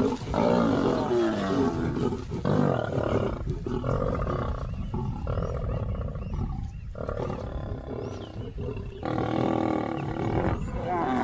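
Lions growling and snarling over a kill in a string of rough, drawn-out snarls with short breaks between them. These are the aggressive sounds of male lions driving a lioness off a carcass.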